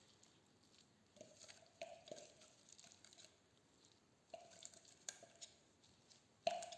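Faint, soft squishing of gloved hands spreading a chopped stuffing over raw chicken thighs, in a few short bursts.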